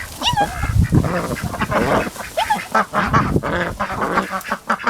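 A flock of domestic ducks quacking excitedly: many short calls overlapping and following one another without a break.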